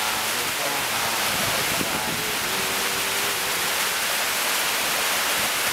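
Heavy rain falling steadily on open ground and trees, a dense, even hiss.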